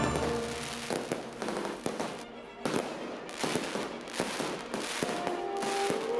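Fireworks going off in quick succession: a string of sharp bangs and crackles, with faint music underneath and music notes coming back in near the end.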